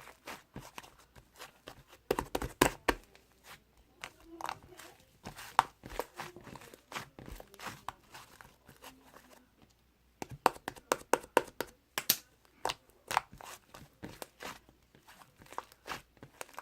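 Liquid slime being squeezed and stretched by hand, giving irregular sharp clicks and pops, densest in two clusters about two seconds in and about ten seconds in.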